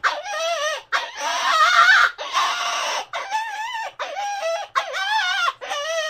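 A series of about eight short animal calls, one after another, each with a wavering pitch, from an animal sound effect.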